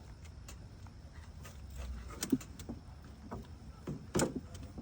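A few scattered clinks and knocks of hand tools on metal, working at bolts under the hood, over a low steady hum; the sharpest knock comes about four seconds in.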